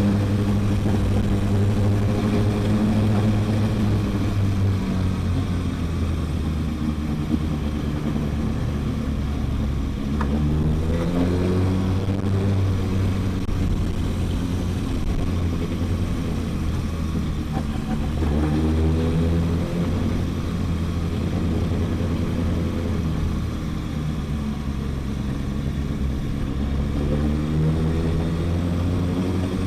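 Kawasaki ZX-6R 636's inline-four engine running while the bike is ridden. Its note climbs under acceleration three times and drops back between, over a steady low drone.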